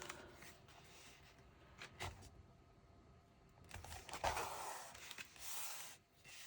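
Faint sounds of paper and cardstock being handled: a light tap about two seconds in, then rustling and rubbing in the second half.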